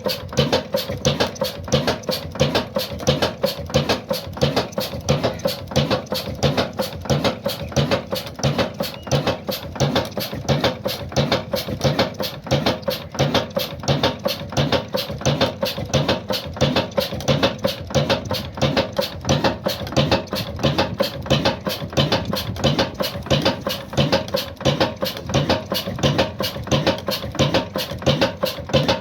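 Old black stationary diesel engine running steadily: a fast, even knocking with a slower low beat under it and a steady hum.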